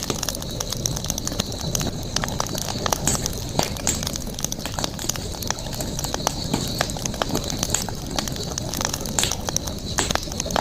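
Campfire burning, crackling with sharp irregular pops over a steady low rush of flame, with a steady high-pitched drone of outdoor night sounds behind it.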